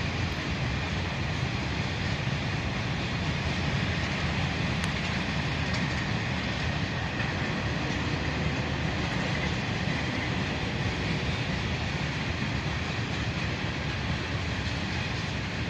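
Freight train rolling past, a steady, continuous rumble of railcar wheels on the rails.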